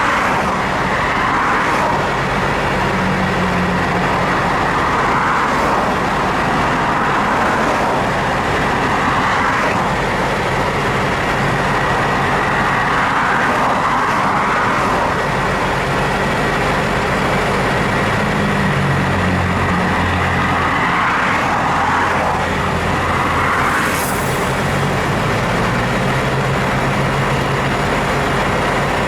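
Motor vehicle engine running steadily amid road noise, its pitch shifting up and down a few times.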